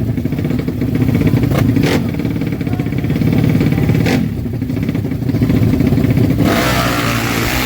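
Honda Karisma motorcycle's single-cylinder four-stroke engine running steadily, with a few sharp clicks. About six seconds in, the engine picks up revs and a rushing noise joins it.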